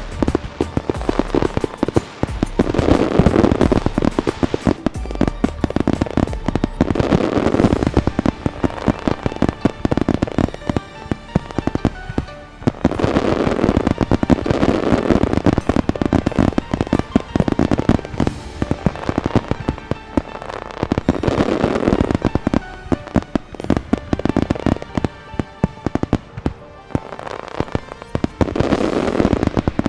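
Large fireworks display: a dense, rapid run of bangs and crackles that swells and eases in waves every few seconds, with music playing along.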